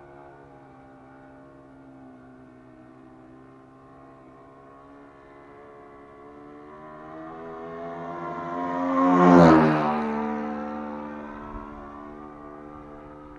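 ASP 61 FS four-stroke glow engine of a Seagull Decathlon radio-controlled model plane flying past. The engine note grows louder, peaks about nine seconds in, drops in pitch as the plane passes, then fades.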